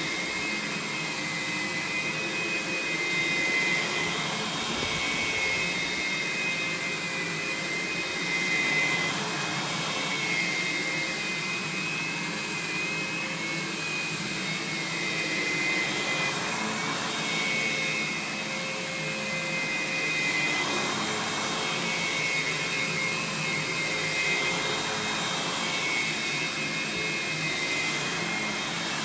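Aerus Lux Guardian upright vacuum's suction motor running steadily: a continuous rushing whine with a high tone that wavers slightly, getting a little louder and softer now and then.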